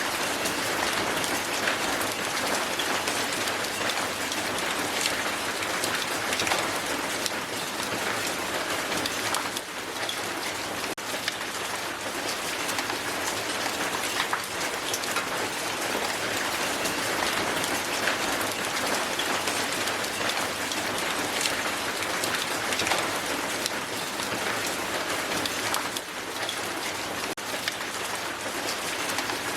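Strong hail falling on a hard surface: a dense, steady patter of countless small icy impacts.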